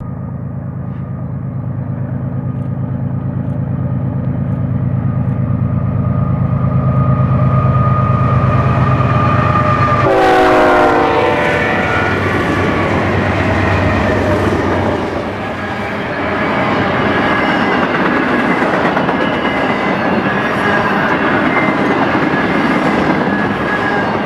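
BNSF intermodal freight train passing: the diesel locomotives' engines drone, growing louder as they approach, and drop in pitch as they go by about ten seconds in. Then comes the rumble and clatter of the stack cars rolling along the rails.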